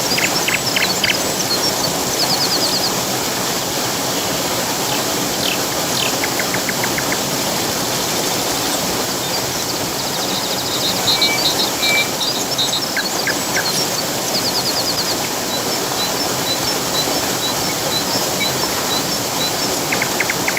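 Steady rush of a waterfall, with small birds calling over it in short rapid trills and chirps, and a run of evenly spaced high notes in the second half.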